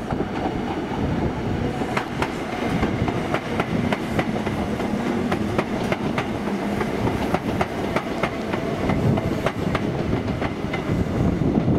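A train running on the rails, its wheels clicking sharply over rail joints and points a few times a second over a steady rumble.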